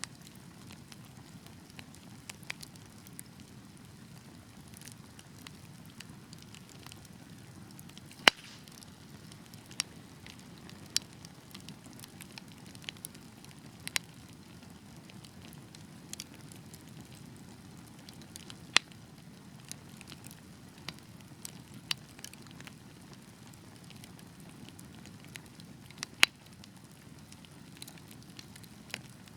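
Burning wood logs with a low, steady rumble of flame and scattered, irregular sharp crackles and pops, the loudest pop about eight seconds in.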